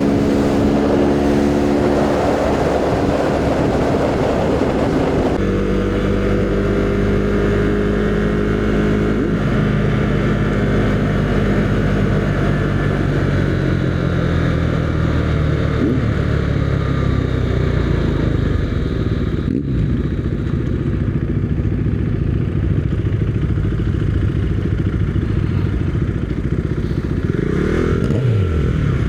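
Husqvarna Svartpilen 401's single-cylinder engine running under way. Its pitch drops in steps through the middle as the bike slows, and the revs rise and fall again near the end.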